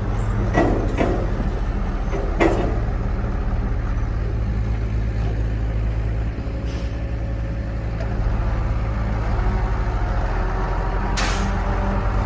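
Old GMC logging truck's engine running steadily with a low, even note. A few sharp knocks come in the first couple of seconds, and a short hiss about eleven seconds in.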